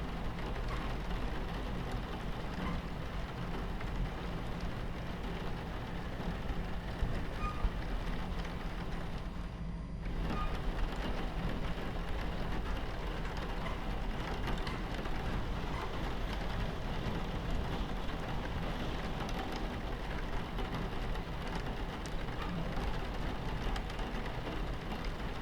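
Steady rain on a train window over the low, continuous rumble of a train running on its tracks. The rain drops out for about half a second around ten seconds in, while the rumble carries on.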